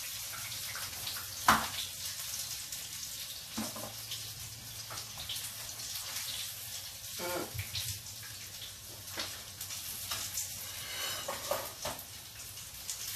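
Chicken frying in oil in a cast iron skillet, a steady high sizzle, with short clicks and knocks of utensils against the pan as the fried pieces are lifted out. The loudest is a sharp knock about a second and a half in.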